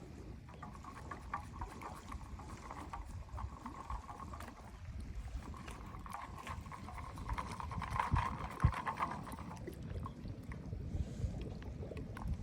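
Wind buffeting the microphone outdoors as a steady low rumble, with a fluttering higher hiss in two long stretches and scattered light clicks.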